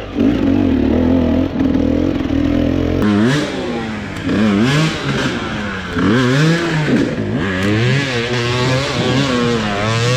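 Dirt bike engine running at a steady pitch, then, about three seconds in, revving up and down over and over as the bike is ridden.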